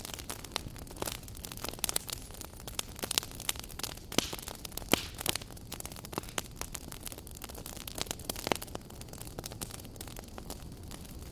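Wood fire crackling in a fireplace: irregular sharp pops and snaps over a steady low hiss and rumble.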